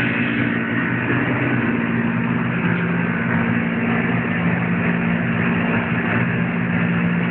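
Package-type air-conditioning unit running, a steady machine hum under an even rush of air.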